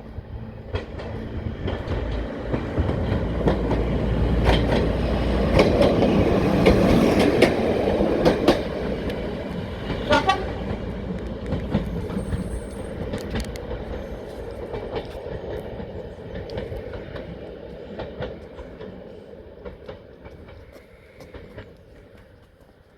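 Heritage diesel train passing: engine rumble and wheels clicking over rail joints, building to its loudest about seven seconds in, then fading away.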